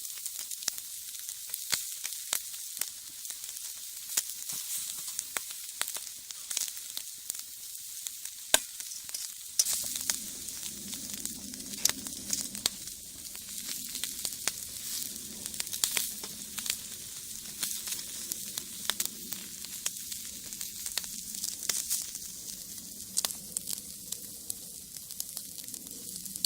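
Shishamo sizzling on a wire grill over the wood fire of a brick rocket stove, with a steady hiss and frequent sharp crackles and pops. A low steady hum joins about ten seconds in.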